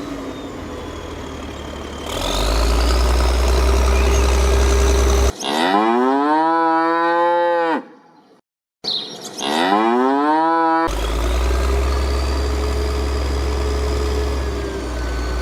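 A steady engine hum with a low drone, cut off about five seconds in by two long, clean, pitched calls, like a cow's moo, with a brief dead silence between them. The engine hum comes back abruptly near the end.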